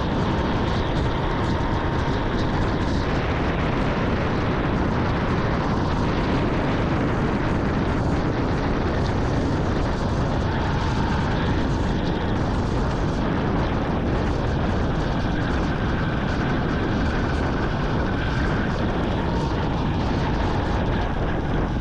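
Vintage Yamaha motorcycle on the move, its engine running steadily under a constant rush of wind and road noise.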